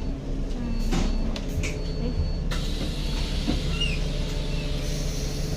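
Busy street ambience: a steady low traffic rumble, with a few scattered clicks and knocks.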